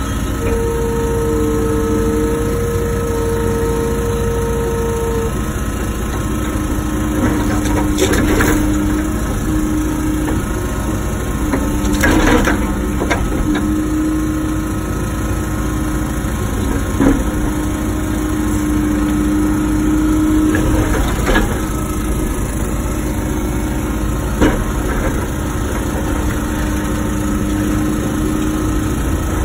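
Wacker Neuson ET145 excavator running steadily, with a whine that comes and goes as the hydraulics work. Several sharp knocks come through it, from the bucket handling rock.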